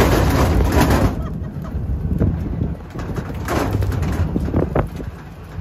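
Open-air off-road tour truck driving, with a steady low engine and road rumble and wind buffeting the microphone, heaviest in the first second.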